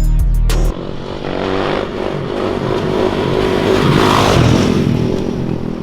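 A short stretch of background music with a heavy beat, cut off under a second in by a Pontiac GTO's V8 revving hard amid tyre noise while doing donuts. The revving is loudest about four seconds in.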